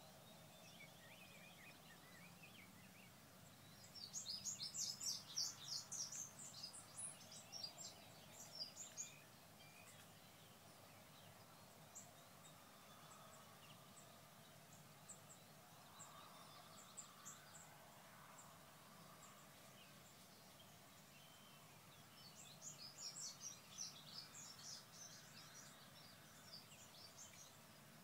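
A songbird singing twice, each a run of rapid high notes lasting several seconds, about four seconds in and again near the end, over faint steady outdoor background noise.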